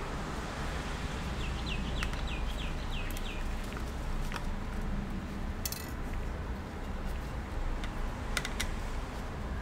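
Steady low background hum, with a quick series of about seven short, high, falling chirps about a second and a half in. A few sharp light clicks follow later.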